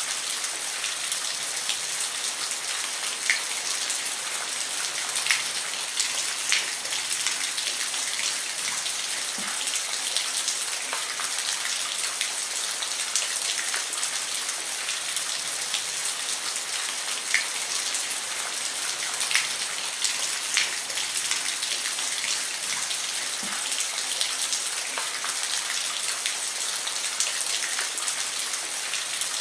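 Steady rain falling on a roof, a continuous hiss with scattered louder individual drops ticking through it.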